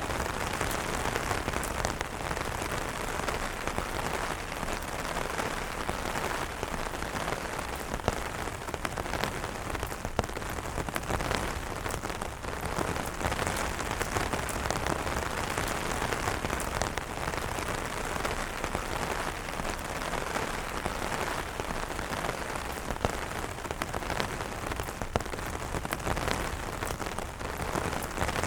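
Steady rain pattering on umbrella fabric, a dense even hiss of drops with many small individual taps.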